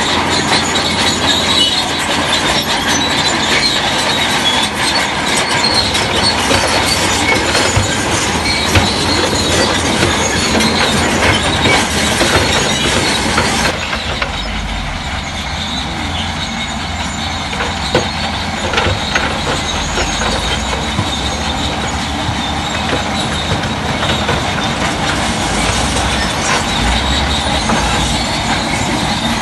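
Shantui DH17C3 crawler bulldozer working, its engine running under load while its steel tracks squeal and clank. The noise eases a little about halfway through.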